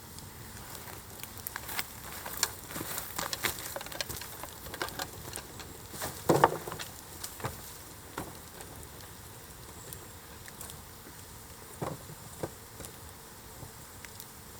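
Wood fire crackling and popping, with many small cracks in the first half that thin out to a few scattered pops later, and one louder knock about six seconds in.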